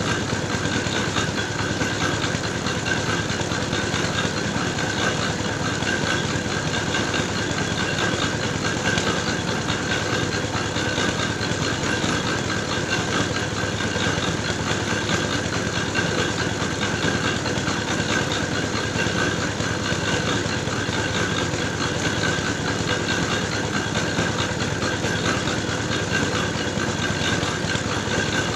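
Engine-driven clay grinding mill running steadily, milling soil into clay mix for red bricks.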